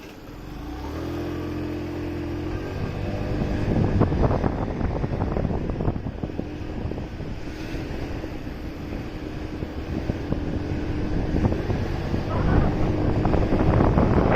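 Motorcycle engine coming up to a steady note about a second in as the bike pulls away, then running along with wind rushing over the microphone, louder from about four seconds in.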